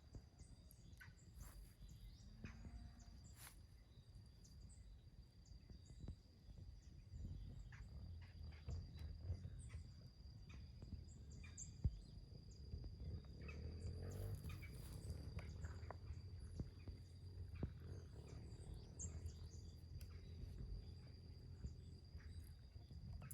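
Faint open-field ambience: a low rumble, a steady high-pitched drone and scattered bird chirps, with one sharp click about twelve seconds in.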